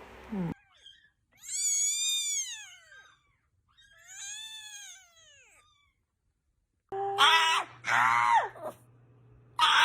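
A cat meowing twice: two long, drawn-out meows that rise and then fall in pitch, the second quieter. About seven seconds in, a louder series of short wailing cries starts over a low hum.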